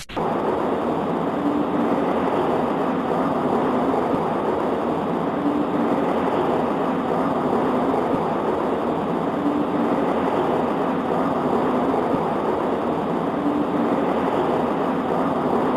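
Steady, muffled rushing noise with no high end, and a faint hum that comes back about every four seconds.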